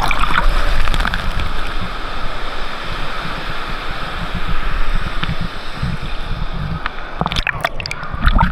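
Wave-pool water churning and sloshing as a big wave breaks and washes through, a steady rush that is loudest in the first second and then eases. A few sharp sounds come near the end.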